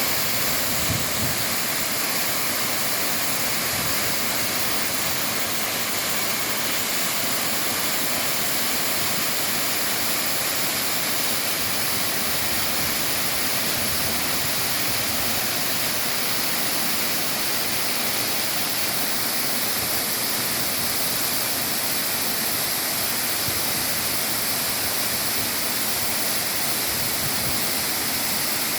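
Waterfall's falling water making a steady, unbroken rushing noise.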